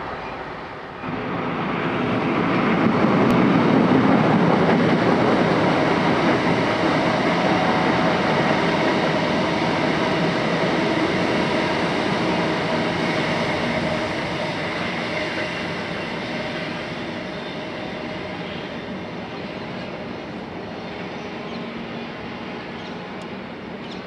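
Suburban electric multiple unit passing close and running away along the track, wheels on rail and traction noise. It comes in suddenly about a second in, is loudest a few seconds later, then fades gradually as the train recedes.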